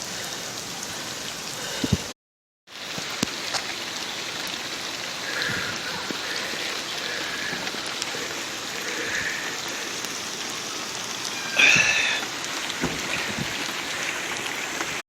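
Heavy rain pouring down, a steady hiss with scattered sharp drop hits close by. The sound cuts out for about half a second about two seconds in, and a short louder sound breaks through near twelve seconds.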